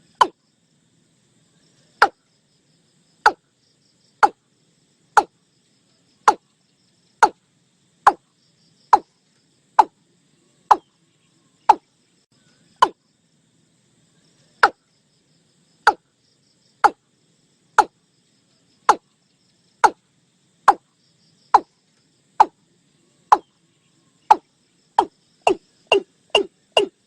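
Watercock calling: a series of short single notes about one a second, quickening to more than two a second near the end.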